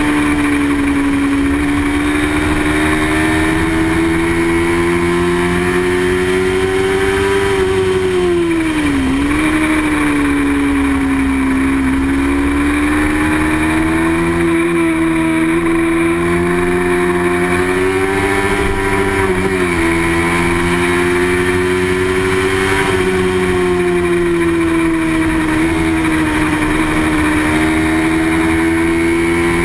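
Small-displacement racing motorcycle engine held at high revs. Its pitch rises and falls gently, with two brief sharp dips about nine and twenty seconds in, as at a gear change or a lift off the throttle.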